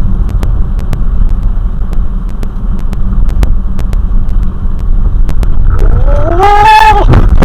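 Loud, steady low vehicle rumble with scattered clicks. Near the end comes a short pitched wail that rises and then holds for about a second.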